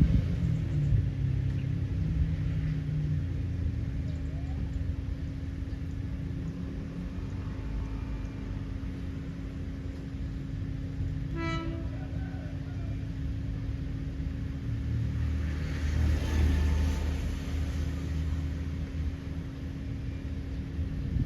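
NKF diesel railcar running with a steady low rumble and hum, giving one short horn toot about halfway through, and growing louder for a moment about three-quarters of the way in.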